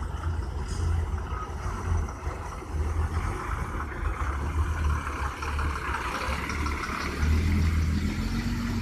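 Heavy vehicle's engine pulling through a hairpin bend, running with a steady low rumble, its pitch rising near the end as it accelerates away.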